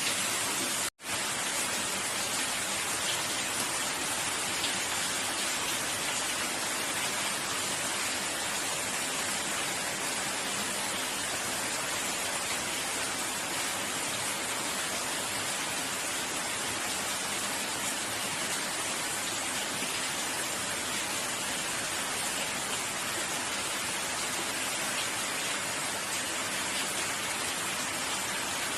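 Steady rain falling, an even dense hiss of drops. The sound cuts out for an instant about a second in.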